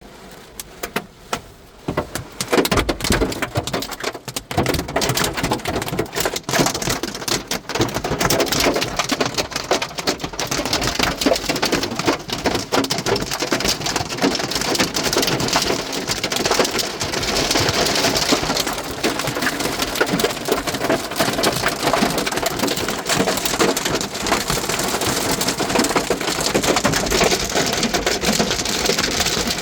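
Hailstones pelting down in a hail storm: a dense clatter of countless small impacts. It starts lighter and becomes heavy about two seconds in.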